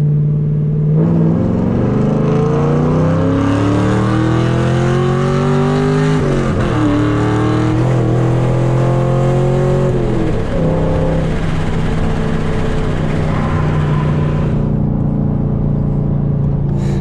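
5th-gen Camaro SS's LS3 V8 with long-tube headers pulling hard: the revs climb for about six seconds, drop sharply at a gear change and climb again for about four more. Then the revs fall and the engine settles into steady cruising.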